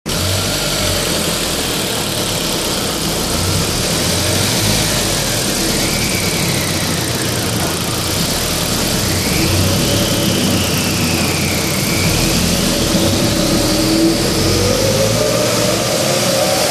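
SEAT Ibiza 1.8-litre turbocharged four-cylinder engine running under load on a dyno during a boost fuel-pressure test. A whine rises and falls a few times, then the pitch climbs near the end as the revs build.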